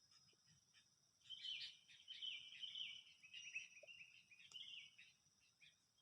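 A bird singing a rapid twittering run of short high notes, starting about a second in and stopping near the end, over a steady high-pitched insect drone.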